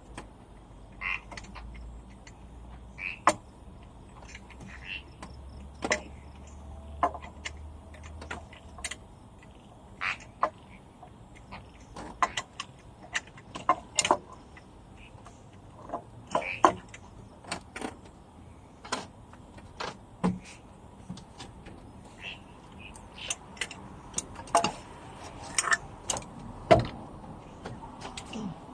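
Hand tools and metal parts clinking and knocking at irregular intervals, about one or two sharp clicks a second, as an exhaust manifold is worked off an engine.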